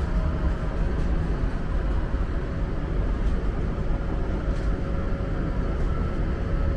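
Passenger train running, heard from inside the carriage: a steady low rumble with a faint steady hum.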